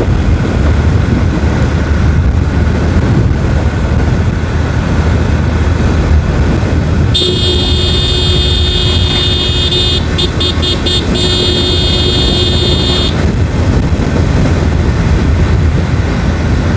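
Motorcycle riding along a highway: steady engine and wind rumble. From about seven seconds in, a high-pitched vehicle horn sounds for about six seconds, broken into a quick run of short toots midway.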